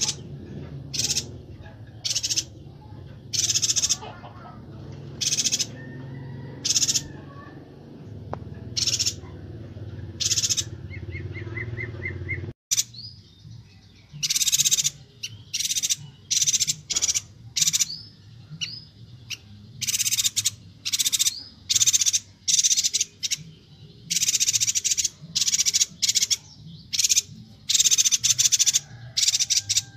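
Yuhina (perenjak batu) calling: short, loud, high, harsh notes repeated about once a second, then coming faster and in denser runs through the second half.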